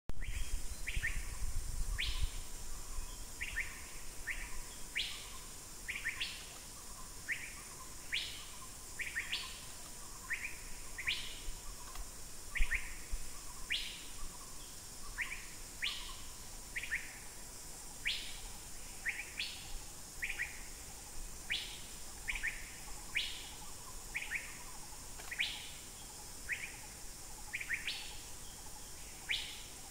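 A bird calling over and over in short, sharply falling whistled notes, one or two at a time about every second, over a steady high hiss. A single low bump sounds near the middle.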